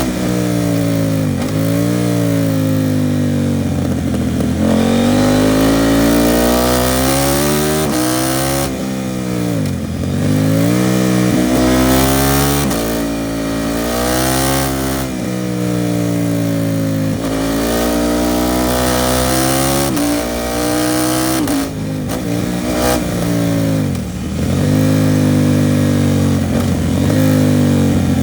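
KTM 790 Duke's parallel-twin engine breathing through an Arrow Pro Race titanium exhaust, pulling hard up through the gears. The pitch climbs and drops sharply at each shift, and it falls away several times as the rider rolls off the throttle.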